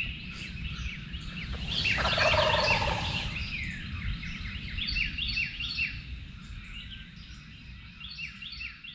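A wild turkey gobbling once, a loud rattling gobble about two seconds in, over songbirds chirping in quick repeated downward-sliding notes.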